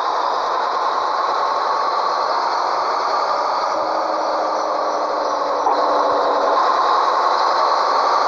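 Scania 113H truck's diesel engine running steadily with rattling, its pitch slowly rising and easing, a little louder from about two-thirds of the way in.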